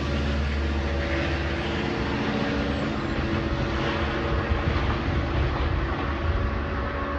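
Long Island Rail Road diesel train running steadily, a heavy low engine drone with a steady hum above it.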